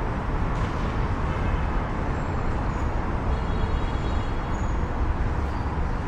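Steady city street traffic: a continuous rumble and hiss of passing cars and buses.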